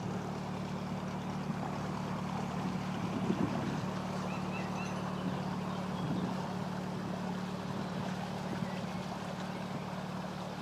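Wind noise on the microphone over a steady low hum, with a few faint high bird chirps about four to five seconds in.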